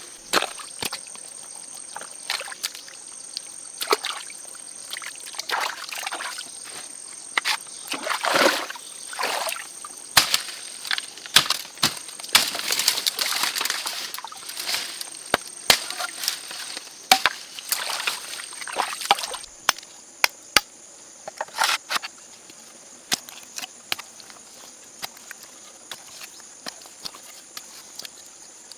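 Water sloshing and trickling amid many short knocks and scrapes from hand work, busiest in the middle, over a steady high-pitched hiss.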